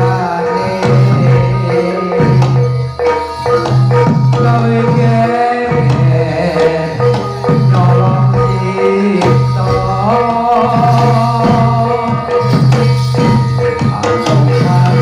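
Javanese gamelan music for a jathilan horse dance: hand-drum strokes over metallophones and a low gong-like tone that repeats about once a second, with a voice singing a bending melody.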